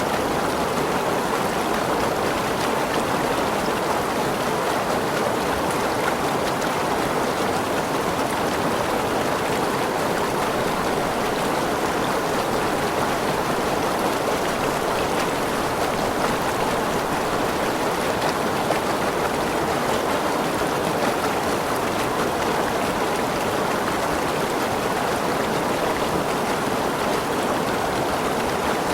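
Forest waterfall and its stream: falling, rushing water making a steady, even roar.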